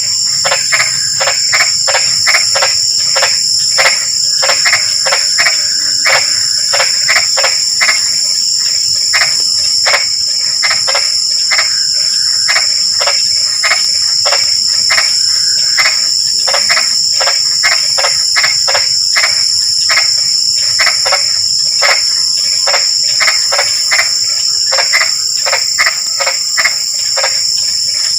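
A chorus of frogs calling in short, rapidly repeated notes, many a second, over a steady high-pitched insect trill.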